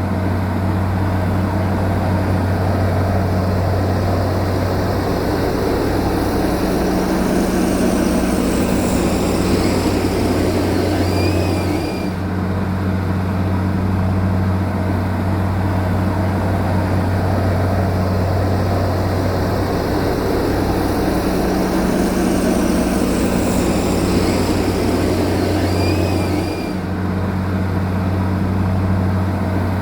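Bulldozer's heavy diesel engine running steadily with a low drone. The sound dips briefly twice, a little before halfway and near the end.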